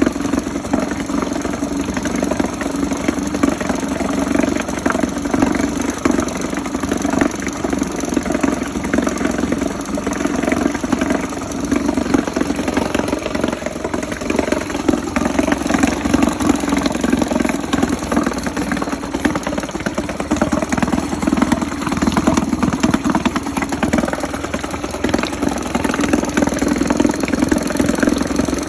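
2-horsepower outboard motor running steadily at a constant low speed, an even engine hum with no revving.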